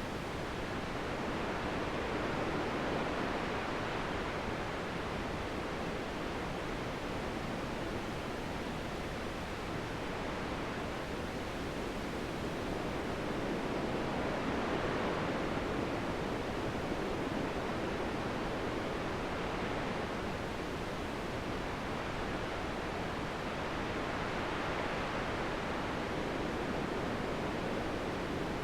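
Wind blowing steadily as a soft rushing hiss, swelling and easing in slow gusts about every ten seconds.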